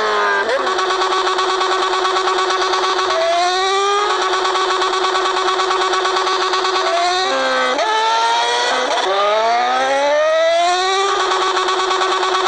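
Yamaha XJ6's inline-four engine on the move: revs climb for the first few seconds, then hold steady. About seven seconds in the pitch drops, climbs again until near the end, and levels off.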